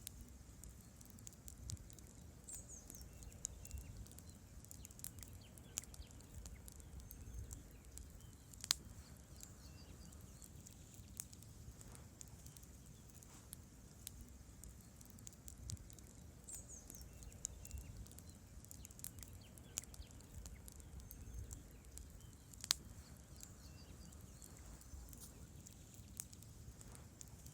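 Wood campfire burning: irregular crackles and sharp pops of the logs over a low rumble of the flames, with two louder pops.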